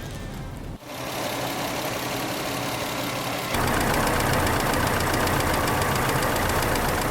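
Car engine running with a fast, even knocking; it gets louder about three and a half seconds in.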